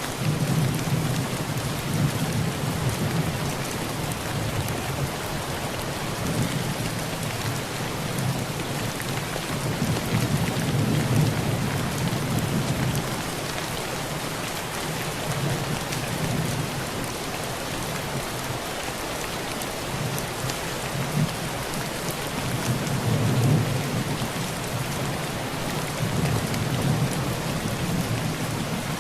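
Heavy rain falling on a rusty tin roof, a steady dense hiss, with low rolls of distant thunder swelling and fading several times.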